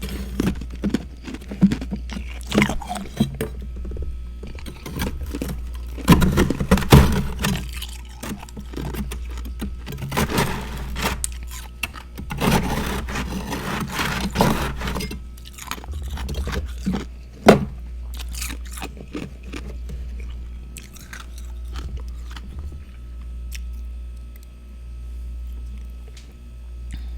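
Hard freezer frost being bitten and chewed close to the microphone: clusters of loud crunching with a sharp snap a little past halfway, then quieter chewing in the last third, over a steady low hum.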